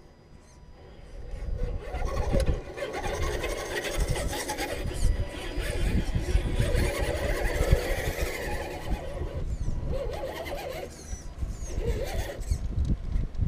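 Radio-controlled rock crawler's electric motor and gearbox whining as it climbs steep rock, the pitch rising and falling with the throttle, with its tyres scrabbling and rubbing on the stone. The sound builds about a second in and grows as the crawler comes close.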